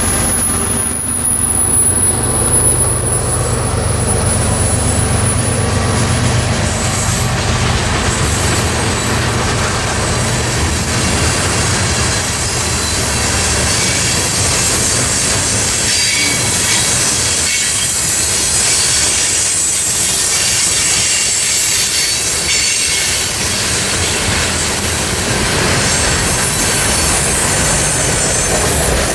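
Freight train cars rolling past on the rails, a steady loud noise of wheels and cars, with a thin high wheel squeal during the first several seconds.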